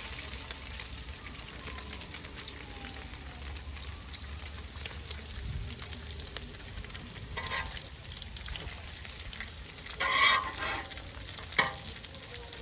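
Burger patties sizzling and frying on a hot flat-top griddle: a steady hiss, briefly louder about seven and ten seconds in.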